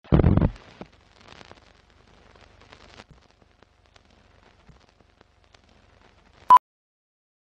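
Countdown-leader sound effects: a short loud crackling burst at the start, faint old-film crackle and clicks, then one short beep near the end, the leader's sync pop.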